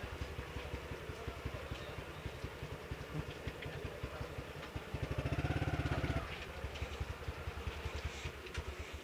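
TVS Tormax 150 motorcycle's single-cylinder four-stroke engine idling with an even putter. About halfway through it is briefly revved up and falls back to idle. The uploader suspects water seeping into the carburettor.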